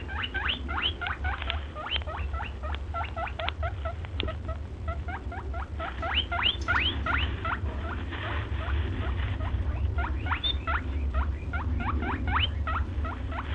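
A small rodent squeaking over and over, several short rising squeaks a second, over a low steady hum.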